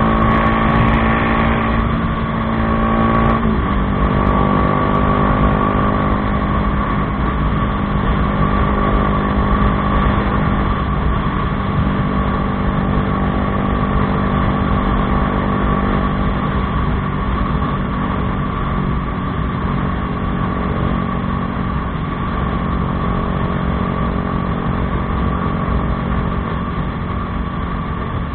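Bajaj Dominar 400's single-cylinder engine running steadily through an Akrapovič aftermarket exhaust, its pitch easing down slightly about three and a half seconds in.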